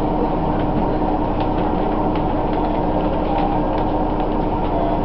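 Diesel railcar running, heard from inside the car: a steady engine and running noise with a constant hum, and light irregular clicking rattles.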